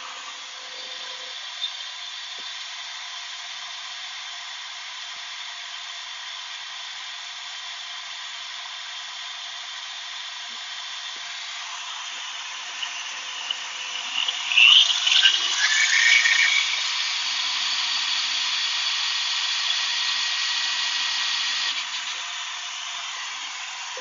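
Higher-speed electric drill running, spinning the propeller: a steady motor whine and air rush that grows louder with a few sharp surges about 14 seconds in, then holds. This drill is not powerful enough to spin the propeller well.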